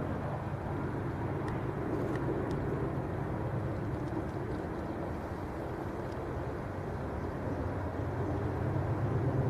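Steady low outdoor rumble with no clear single source, and a few faint ticks about two seconds in.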